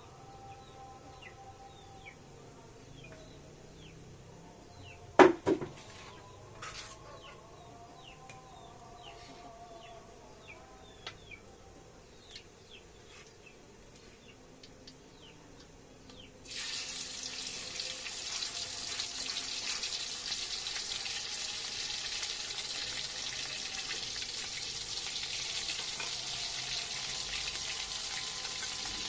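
A sharp knock about five seconds in, over faint bird chirps. Just past halfway, a steady sizzle starts suddenly as food goes into hot oil in a frying pan, and it keeps frying.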